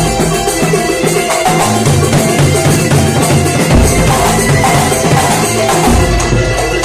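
Kuntulan music from a percussion ensemble: hand drums and jingles playing a busy, continuous rhythm over deep recurring bass-drum tones.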